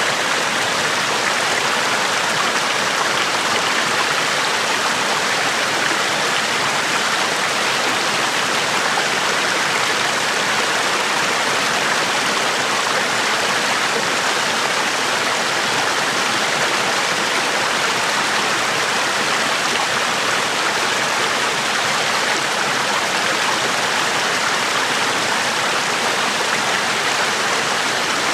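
Small waterfall splashing and rushing steadily, an even hiss of falling water with no break.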